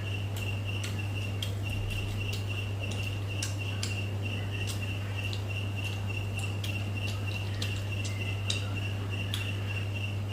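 Sharp, irregular mouth clicks and smacks of someone chewing food, over a cricket chirping steadily in a high, evenly pulsed trill and a steady low electrical hum.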